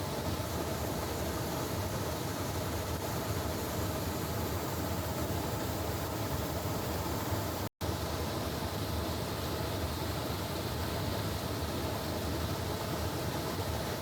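Steady rushing noise with a low rumble underneath, unchanging in level, cut to silence for an instant a little past halfway.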